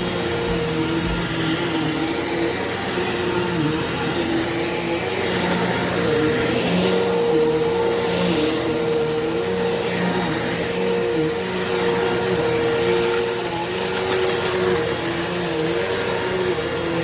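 Eureka PowerSpeed bagless upright vacuum cleaner running, a steady motor hum and airflow hiss whose pitch wavers slightly as it works.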